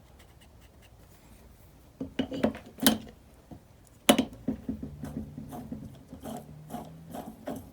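Handling noise: a few sharp clicks and knocks, the loudest about four seconds in, then a run of lighter clicks with a faint low hum for a couple of seconds.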